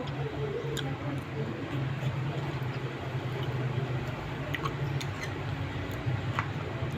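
A person eating fruit: a few scattered light clicks and mouth sounds over a steady low hum in a small room.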